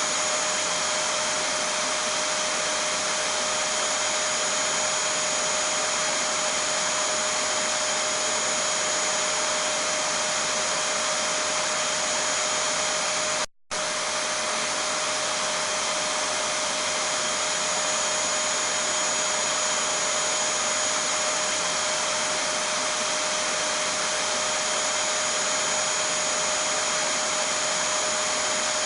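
Vacuum cleaner running steadily: a constant whooshing motor noise with a steady whine on top. About 13 seconds in it cuts out for a split second, then carries on unchanged.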